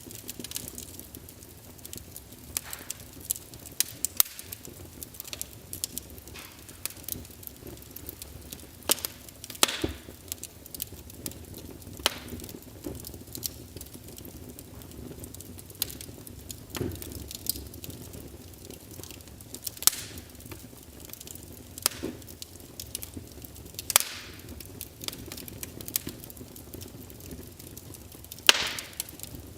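Wood fire crackling in a fireplace: irregular sharp pops and snaps from the burning logs over a low steady hiss, with a few louder pops.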